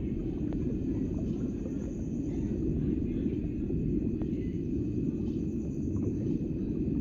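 Steady low rumbling noise with faint scattered clicks and a faint steady high whine.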